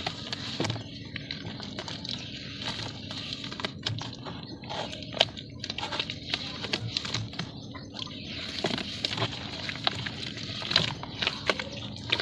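Lumps of dry red dirt crumbling and being crushed, an irregular run of crunches and crackles with some sharper cracks.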